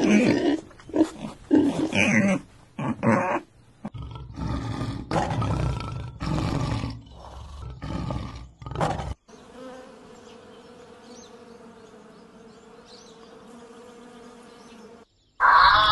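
A quick string of different animal calls, several short roars among them, then, about nine seconds in, a steady insect-like buzz lasting about six seconds.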